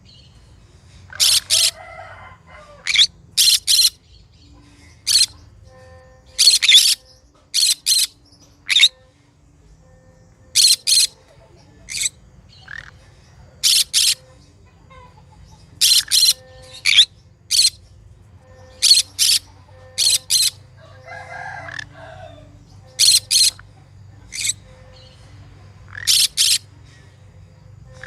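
Green conure calling: short, sharp, high calls in quick groups of two or three, a group every second or two.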